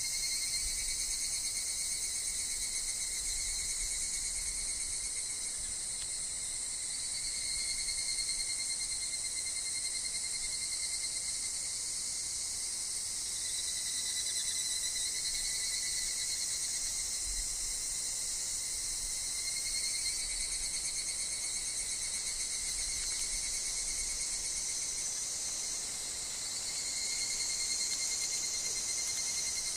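Steady, unbroken insect chorus: a dense high-pitched buzz with two fainter ringing tones beneath it that waver slightly in pitch.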